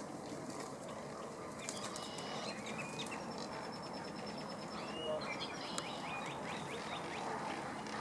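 Several birds chirping and calling: a run of short high chirps, whistles and gliding notes between about two and seven seconds in, over a steady background hiss.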